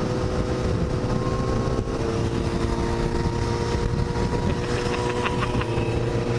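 Motorcycle engine running steadily, a low rumble with a constant hum.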